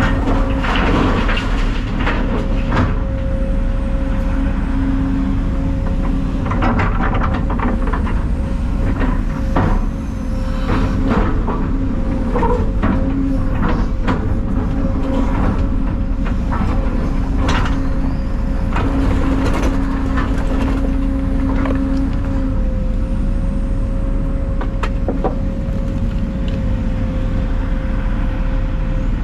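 Heavy equipment engine running steadily with a constant whine, with frequent clanks and knocks throughout.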